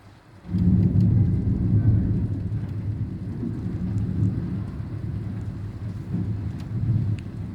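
Heavy rain falling, with a deep rumble of thunder that starts suddenly about half a second in and slowly dies away.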